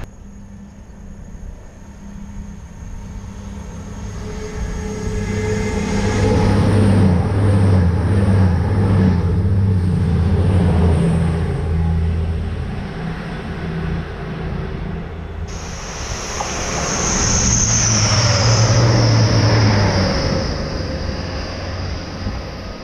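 Train passing at speed on the main line. It builds over several seconds, is loudest twice, and a high whine comes in sharply about two-thirds of the way through.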